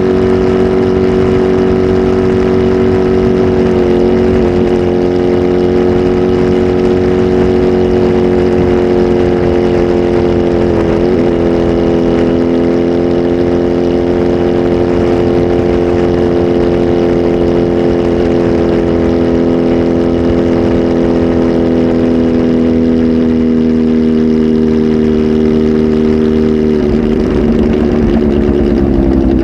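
Kawasaki Z H2 SE's supercharged inline-four, flash-tuned and breathing through a full aftermarket exhaust system, held at steady raised revs for a long stretch. The pitch sags slowly, then the revs drop back toward idle near the end.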